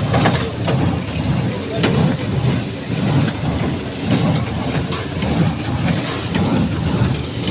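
Shaktiman tractor-driven square baler working through sugarcane trash: a steady mechanical clatter over a running engine, with repeated knocks at irregular intervals.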